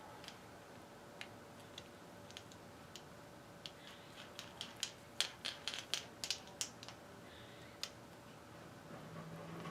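Light clicks and clinks of small metal winch parts being handled during a teardown: scattered single clicks, then a quick run of about a dozen in the middle, over a faint steady hum.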